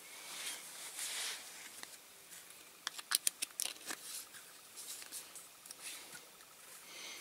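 Hands handling small diecast model car parts on a workbench: a soft rustle, then a quick run of light clicks and taps, with a few fainter ticks after.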